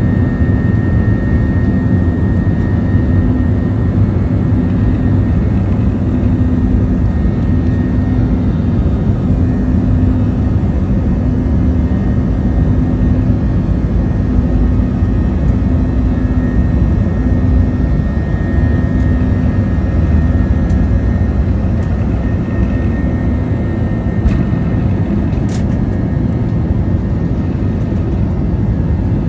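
Airbus A321-231's IAE V2500 turbofans heard from inside the cabin during the takeoff run: a steady loud rumble with a faint steady whine.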